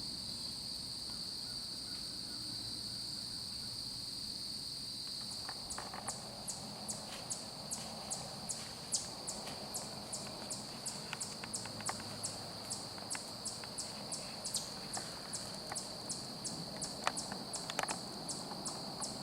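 Crickets trilling steadily in a woodland insect chorus; from about five seconds in, a nearer insect joins with a regular chirp about three times a second. A few faint scattered clicks.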